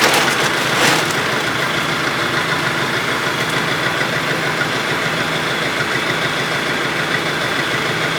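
An engine idling steadily, with a couple of short clicks or knocks in the first second.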